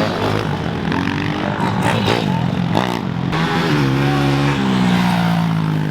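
Small pit bike engines revving on a dirt track. The pitch climbs and drops repeatedly as the riders open and close the throttle, and there are a few sharp cracks in the middle.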